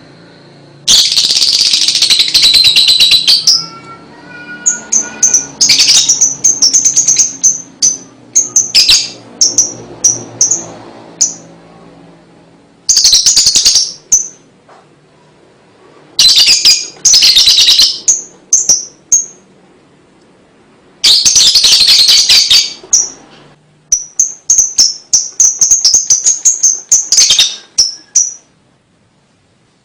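Lovebird chattering ('ngekek'): several long bursts of rapid, shrill chatter, the longest about two and a half seconds, with runs of short repeated high chirps and brief pauses between them.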